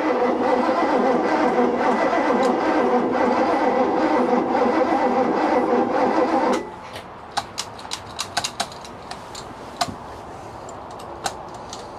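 Chevy 350 V8 marine engine turning over on its starter without firing, because the ignition is giving no spark. The cranking cuts off suddenly about six and a half seconds in, followed by scattered light clicks.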